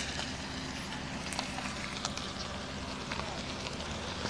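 A car engine idling steadily, with scattered light clicks and crackles over it.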